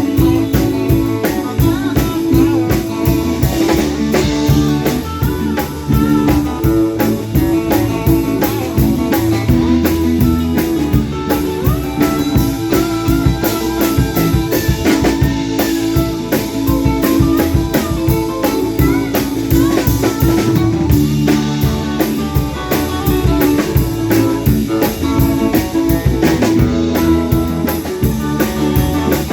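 Rock band playing an instrumental stretch, with an electric guitar lead over a steady drum kit beat.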